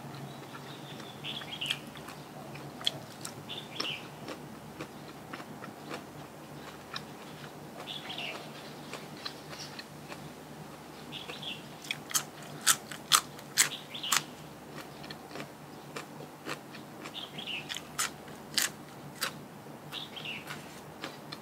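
Close-miked chewing and crunching of food, with runs of sharp crunches about halfway through and again near the end. A bird gives short falling chirps every few seconds in the background.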